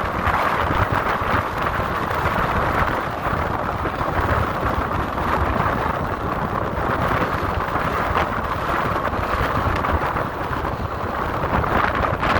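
Strong wind buffeting a phone's microphone: a steady, loud roaring rush with a low rumble, rising and falling a little in gusts.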